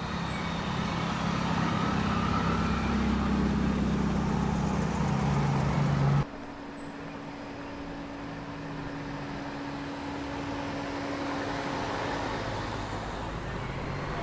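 Ford car engines driving slowly out past at low revs: first a Ford StreetKa's engine, growing louder as it pulls away close by, then after an abrupt cut about six seconds in, a quieter, steady engine note from the next car approaching.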